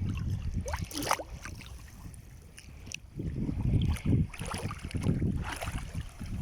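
Wind buffeting the microphone in gusts: a low rumble that swells and fades, easing for a moment about two seconds in. About a second in, a brief higher rising sound cuts through.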